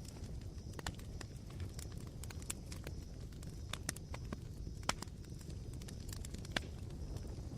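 Smouldering campfire coals crackling: irregular sharp pops and ticks over a steady low rumble, with the loudest pops about a second in, near the middle and past two-thirds of the way.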